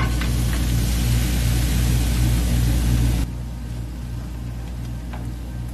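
Rice and cauliflower rice sizzling as they are tipped into hot sesame oil in a frying pan and stirred with a spatula. The sizzle cuts off suddenly about three seconds in, leaving a low hum and background music with a steady beat.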